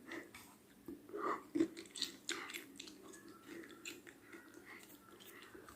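A person chewing a mouthful of burger, with soft wet mouth clicks that come often at first and thin out after a few seconds.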